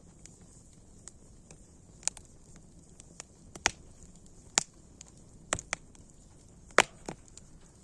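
Wood fire crackling: irregular sharp snaps and pops, a few of them louder, over a faint steady hiss.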